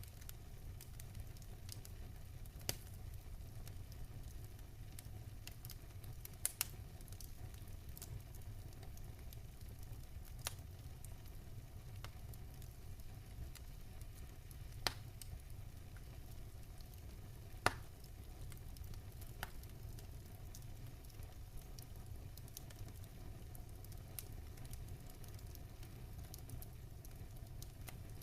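Wood fire crackling and popping in a fireplace, with a steady low rumble of the burning fire under scattered sharp pops, a few louder ones standing out.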